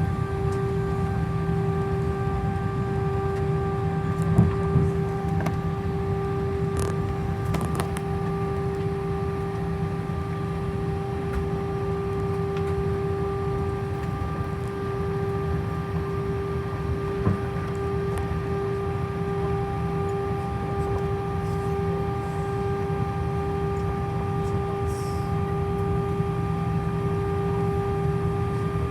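Cabin noise inside an Airbus A319: a steady hum from the engines and air conditioning, with a constant whine over it. Light knocks come twice about four seconds in and once more about seventeen seconds in.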